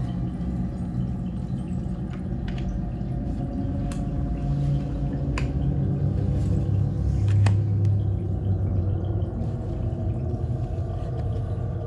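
A steady low rumbling drone with several sharp clicks scattered through it.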